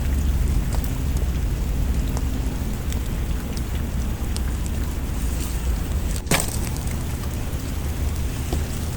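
Wood fire crackling over steady rain, with scattered small pops and one loud sharp pop about six seconds in.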